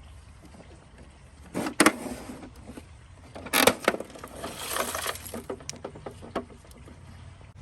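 Hard plastic toy parts and small objects clattering and knocking: two loud clattering knocks about one and a half and three and a half seconds in, followed by a rattling patter of smaller clicks that dies away.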